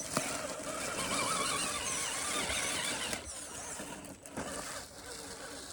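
Axial SCX10 RC rock crawler's electric motor and drivetrain whining as it is throttled over rocks, the pitch wavering with the throttle. Short high chirps come and go over it.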